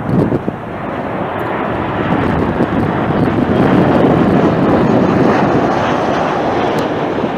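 Jet airliner passing close by: a smooth engine roar that swells over the first few seconds and stays loud, with wind buffeting the microphone at the start.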